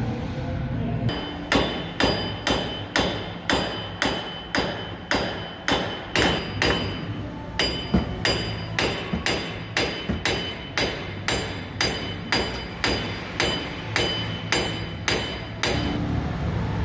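Hammer striking metal in a steady series, about two blows a second, each blow ringing; the hammering starts about a second and a half in and stops near the end.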